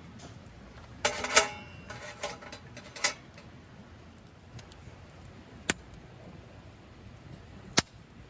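Metal camp cookware clinking and clattering in a short cluster about a second in, as a small iron griddle and grill net are handled over a fire pit; two single sharp clicks follow later.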